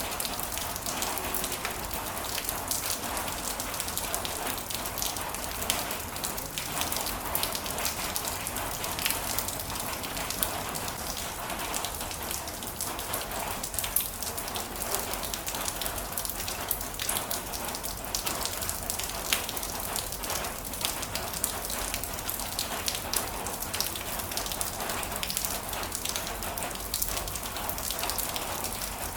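Heavy rain falling steadily on a surface, a dense even hiss with many sharp individual drop ticks.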